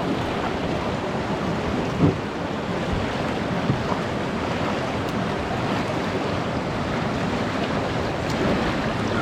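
Fast floodwater rushing steadily through a drainage culvert around a kayak, with a single knock about two seconds in.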